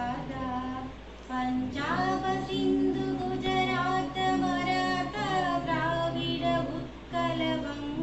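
A female voice singing a slow melody with long held notes, pausing briefly about a second in.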